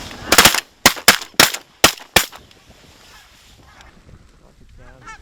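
A volley of about six shotgun blasts in under two seconds from several waterfowl hunters shooting at incoming geese, followed near the end by a short run of goose calls.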